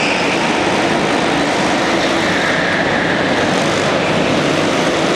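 Go-kart engines running on a karting track: a steady engine drone with faint whines that drift up and down in pitch.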